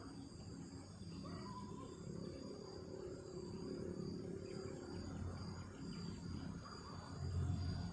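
Night insects, crickets or similar, chirring steadily in high-pitched bands, over a low rumble of wind on the microphone that swells near the end.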